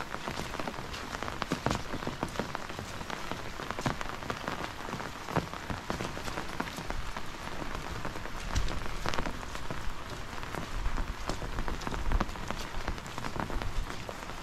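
Rain pattering on a surface: a steady hiss dotted with many small irregular taps, with a few low bumps.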